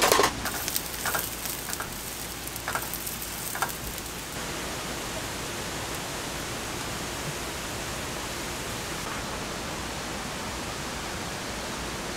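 Steady hiss of rain falling, with a few light clicks and knocks in the first four seconds.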